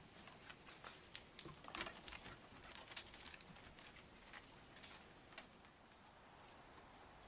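A pet moving about: faint, light clicks and jingles, scattered and irregular, thinning out about five seconds in.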